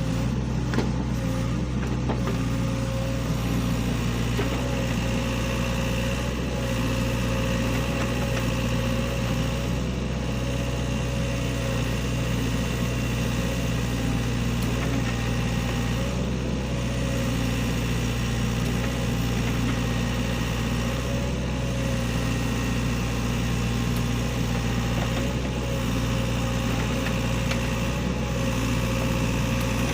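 SANY excavator's diesel engine running steadily, with a thin steady whine above the engine note that wavers slightly.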